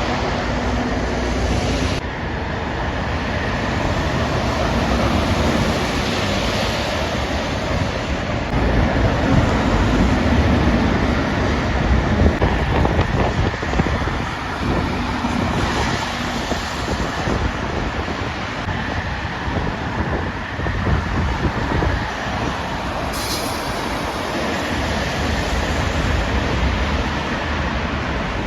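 Lorries and other traffic passing along a busy main road, a continuous rush of engine and tyre noise that swells and fades as each vehicle goes by. A short high hiss comes about two-thirds of the way through.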